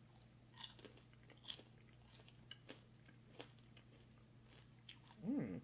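A person chewing a mouthful of candy-coated tropical punch flavored popcorn: faint, scattered crunches about once a second, then a short vocal murmur near the end.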